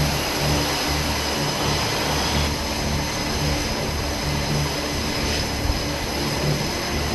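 Jet aircraft engine noise: a loud, steady rush with a high whine, over a low pulsing beat.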